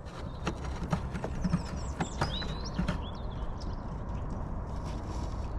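Irregular light clicks and knocks of hand tools and metal fasteners as screws are worked out of a compressor's rear metal panel. A few short high squeaks come about two to three seconds in.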